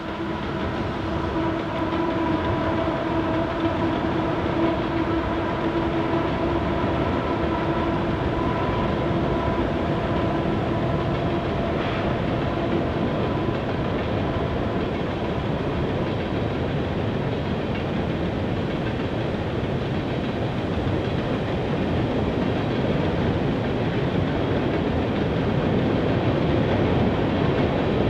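Canadian Pacific coal train crossing a steel truss rail bridge: a steady rumble of wheels with clickety-clack, growing a little louder near the end. Several steady held tones sound over it in the first half and fade out about halfway.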